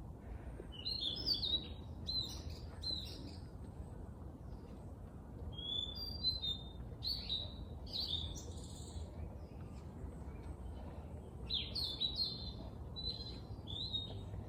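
Songbird singing in quick, high chirping phrases, in three bouts with short pauses between, over a steady low background rumble.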